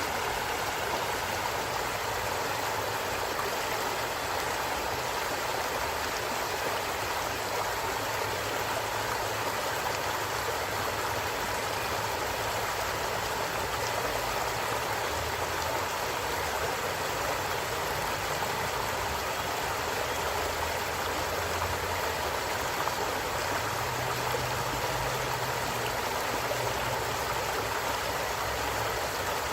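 Stream water rushing and gurgling over rocks, steady and unbroken.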